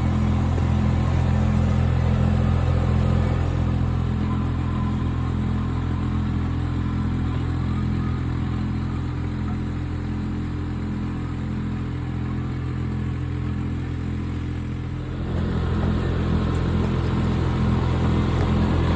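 Diesel engine of a small 3-tonne backhoe loader running steadily under work, easing off slightly for a while and picking up again about 15 seconds in.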